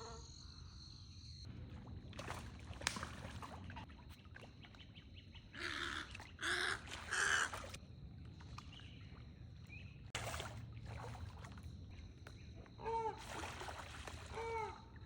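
Birds calling in a nesting colony: three loud harsh squawks about six to seven and a half seconds in, and short pitched calls that rise and fall near the end, over a steady low rumble.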